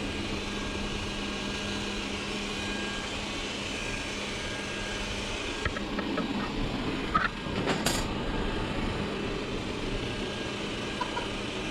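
Xiaomi Mijia robot vacuum cleaner running after starting a cleaning cycle: a steady whir from its fan and brushes, with a low hum that drops out about halfway, a few clicks, and a short knock a little later.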